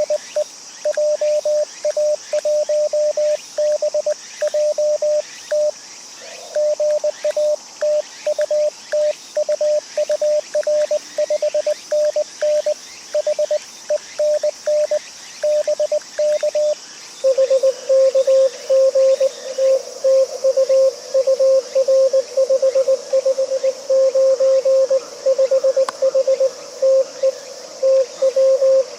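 Morse code (CW) from an amateur radio transceiver: a keyed tone sending dots and dashes, with a slightly lower, louder keyed tone taking over a little past halfway through.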